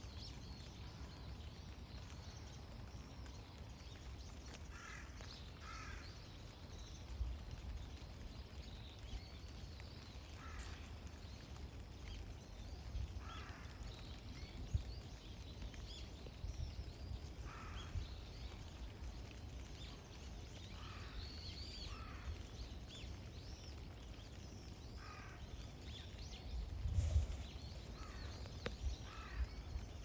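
Wild birds giving short calls every few seconds over a steady low rumble, with a couple of low thumps near the end.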